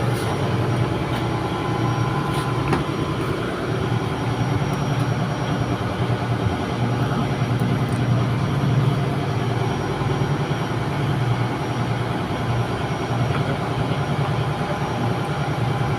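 Steady low drone of running ship's machinery, with a few faint clicks.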